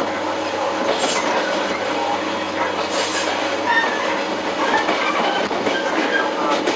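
Interior running sound of a JR 115-series electric train's motor car (MoHa 114) under way: a steady rumble of wheels on rail and running gear, with two brief high hisses about one and three seconds in.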